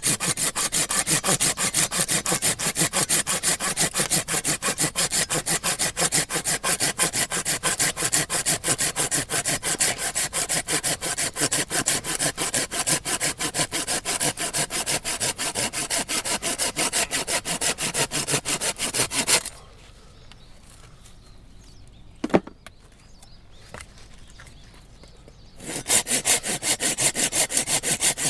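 Hand saw cutting through firewood in fast, even back-and-forth strokes. The sawing stops for about six seconds, with one sharp knock in the pause, then starts again near the end.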